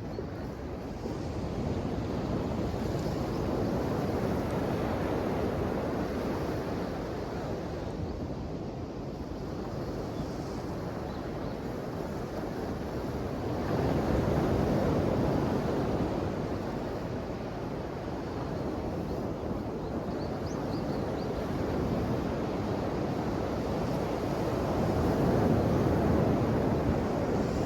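Ocean waves breaking and washing ashore, a steady rush of surf that swells and eases. Louder surges come about every ten seconds, the strongest around the middle and near the end.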